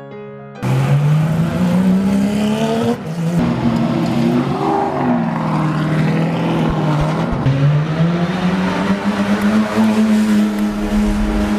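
Racing car engine at high revs, its pitch rising and falling as it accelerates and changes speed, starting abruptly a little under a second in.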